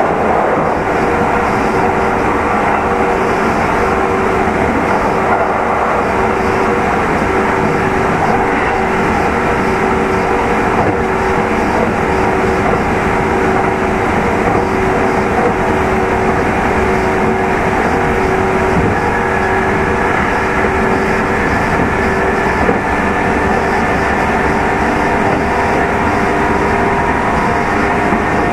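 Kintetsu 2800 series electric train heard from aboard motor car Mo 2813 while running between stations: a steady hum and whine from the traction motors and gearing over wheel and rail noise, at a fairly constant speed. A faint higher whine joins about two-thirds of the way through.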